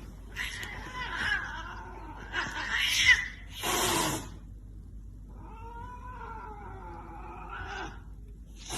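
A cat meowing in several drawn-out, wavering calls, with a short noisy burst about four seconds in and one long call from about five to eight seconds.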